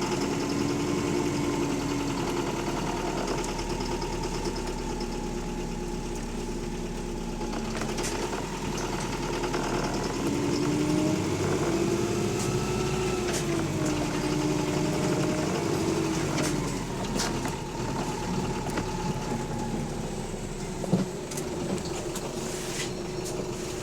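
Double-decker bus engine running as heard on board, with a whine that rises and falls around the middle and a sharp click near the end. The engine has a rod knock.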